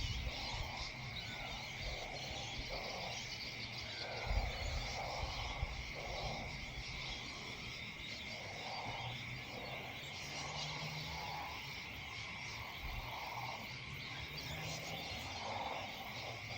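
Evening outdoor chorus: a steady, high insect drone with short, low croaking calls repeating irregularly about once a second.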